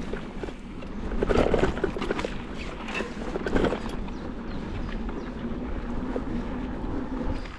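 Bikepacking bike being ridden on a test ride: steady tyre and road noise with wind on the microphone, and louder rattles about a second and a half and three and a half seconds in.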